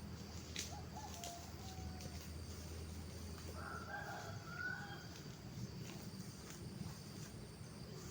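A rooster crowing once, faintly, about four seconds in, over a steady low background rumble.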